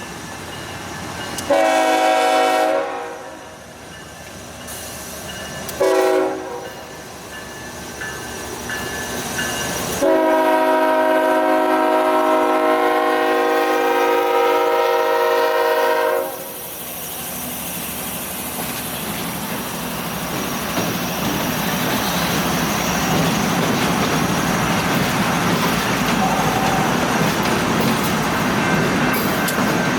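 Diesel freight locomotive horn sounding three blasts: a long one, a short one a few seconds later, then a long blast of about six seconds starting about ten seconds in. After the last blast the rumble of the moving locomotive consist grows steadily louder.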